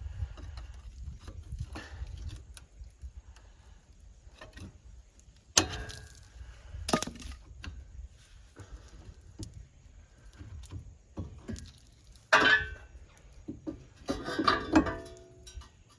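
Metal tools and brake parts being handled: scattered clinks and knocks, with a few louder sharp clanks about five and a half, seven and twelve and a half seconds in and a cluster near the end, some ringing briefly.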